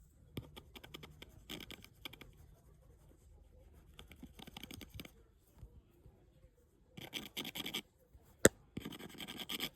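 Scratching, in several short bouts of fine rapid rasping, with one sharp click near the end that is the loudest sound.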